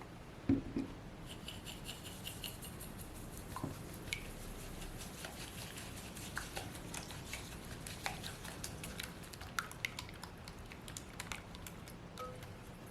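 Kitchen preparation sounds: a knock about half a second in, then light, irregular clicks and taps of utensils and containers, some with a brief ring.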